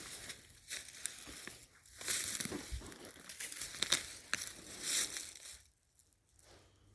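Footsteps crunching and rustling through dry winter leaf litter, irregular and close, stopping about six seconds in.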